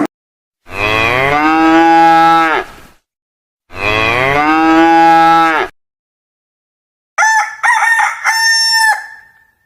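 A cow mooing twice, two long calls of about two seconds each that rise and then hold. After a pause, a domestic fowl calls: a few short high notes ending in one longer held note.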